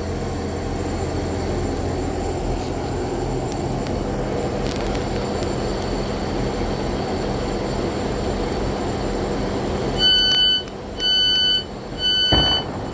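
Class 159 diesel multiple unit standing at the platform, its diesel engine running with a steady low rumble. About ten seconds in, the door-closing warning begins beeping, a shrill tone repeated about once a second, three times.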